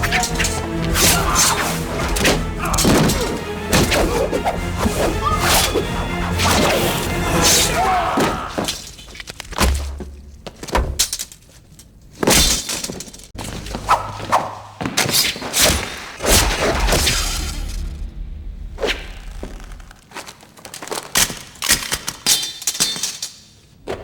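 Film fight soundtrack: a fast run of thuds and hits over score music, thinning after about eight seconds to scattered single blows between quieter stretches.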